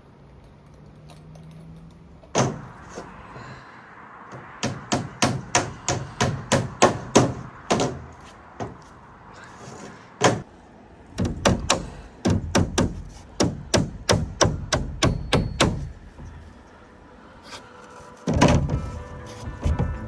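Hammering: sharp knocks in quick runs of about three strikes a second, with pauses between runs, and a heavier knock near the end.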